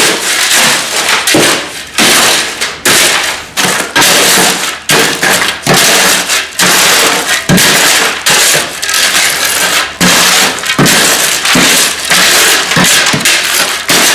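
Shovel scraping and turning a dry mix of cement, sand and gravel aggregate in a wheelbarrow: gritty crunching scrapes, a little over one stroke a second.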